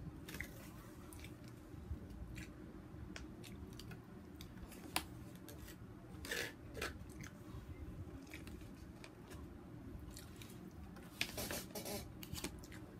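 Close-miked chewing and mouth sounds of a person eating, with scattered sharp clicks and short crackly bursts, over a steady low hum.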